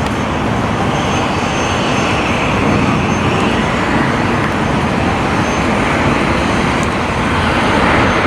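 Jet airliner's engines on final approach to land, a loud, steady rushing roar.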